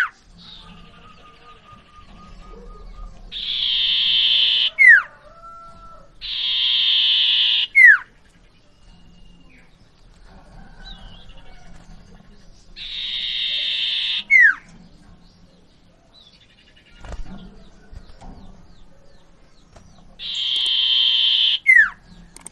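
Common iora (cipoh) song: four phrases, each a rapid buzzy trill of about a second that ends in a sharp downslurred whistle, the 'sir…tu' phrase, with softer chirps between them.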